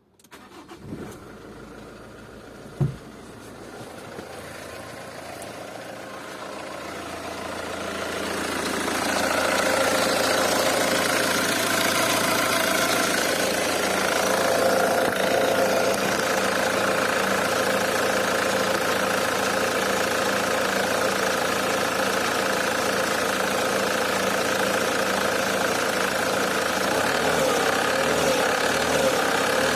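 Nissan YD22 2.2-litre diesel running soon after a start, with a metallic knocking clatter that the owner suspects comes from the injectors. A sharp knock comes about three seconds in, and the engine sound swells over the next several seconds, then holds steady.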